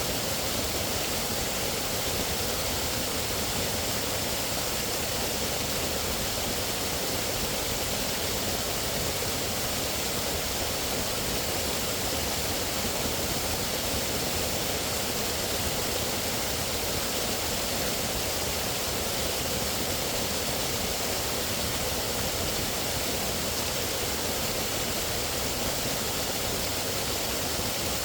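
Steady, unbroken rushing of running water, an even wash of noise with no distinct events.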